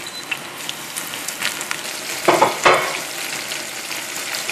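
Breaded anchovies deep-frying in hot vegetable oil, sizzling and crackling steadily with small pops, with two louder bursts of sizzle a little over two seconds in.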